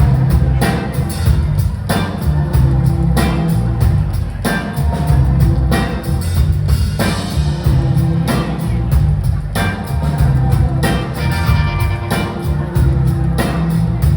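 Live rock band playing an instrumental passage of a song, with a drum kit keeping a steady beat over bass and guitars.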